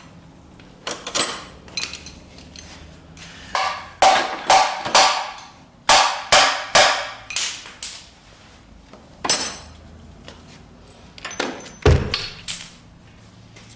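Sharp metal knocks and clanks from work on a stripped-down engine, about fifteen strikes in quick groups of two to four, each with a short ring, and one heavier, deeper thud about twelve seconds in.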